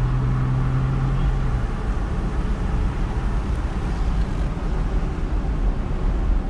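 Road and engine noise inside a moving car: a steady low rumble of tyres and engine, with a low hum that drops away a couple of seconds in.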